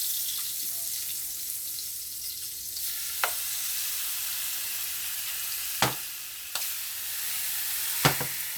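Seasoned T-bone steaks sizzling as they fry in butter in a pan: a steady frying hiss, broken by three sharp clicks about two and a half seconds apart.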